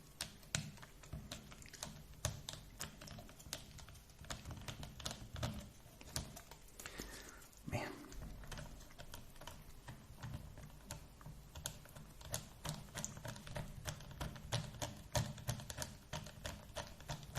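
Faint, quick light clicks and taps, several a second, of small plastic RC car differential parts being turned and handled by hand, with a brief scrape about halfway through.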